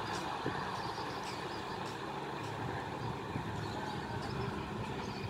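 Passenger train running away along the track: a steady rumble of wheels on rails.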